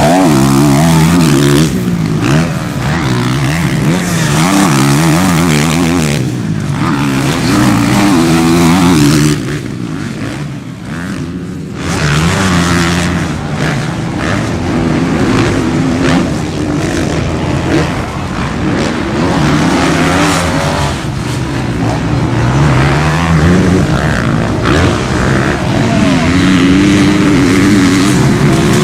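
Motocross bike engines on a race track, revving hard, their pitch climbing and falling again and again through gear changes as bikes pass, sometimes several at once. The sound drops back briefly about a third of the way in.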